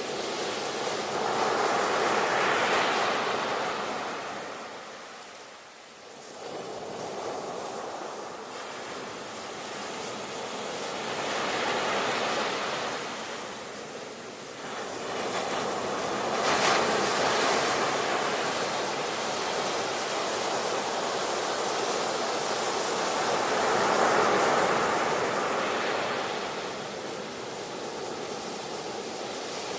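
Ocean surf: waves breaking and washing ashore in slow swells that rise and fall every ten seconds or so.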